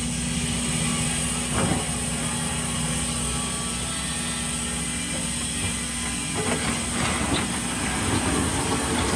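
Diesel engine of heavy earthmoving machinery running steadily, with a knock about a second and a half in and a run of metallic clanks and scrapes from about six and a half seconds.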